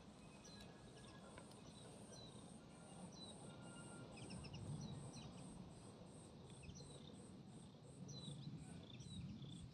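Faint insect call, a high-pitched pulse repeating about three times a second, with scattered short bird chirps over a low background rumble.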